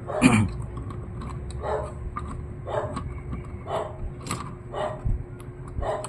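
A dog barking repeatedly, about once a second, the first bark the loudest.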